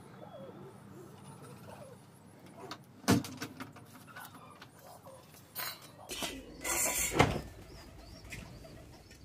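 Faint bird calls in the background, with a sharp knock about three seconds in and a short burst of noise around seven seconds, the loudest moment.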